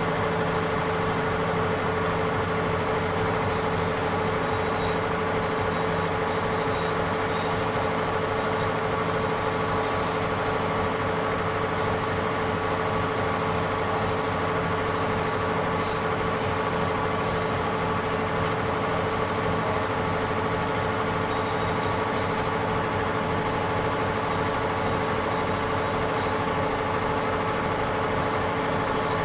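Computerised embroidery machine running steadily, its motor giving a constant whine over the fast, even chatter of the stitching.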